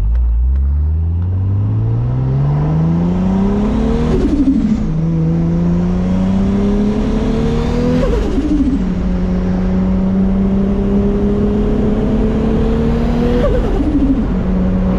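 Turbocharged 2JZ inline-six of a MK4 Toyota Supra accelerating hard through the gears. The engine note climbs from a low rumble and drops at three upshifts, about four, eight and thirteen and a half seconds in, with each pull longer than the last. A faint high whine rises along with each pull.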